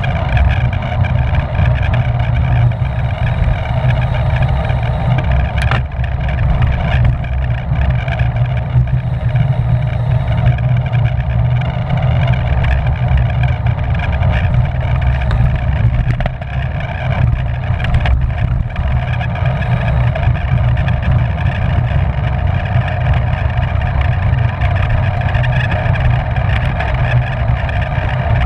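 Steady, loud wind rumble buffeting the microphone of a camera riding on a racing bicycle at speed, with a sharp click about six seconds in.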